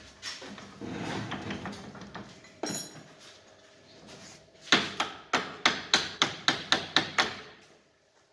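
A hammer striking metal parts of a car's steering rack being taken apart: some clattering and a single knock, then a quick run of about ten sharp blows, about four a second.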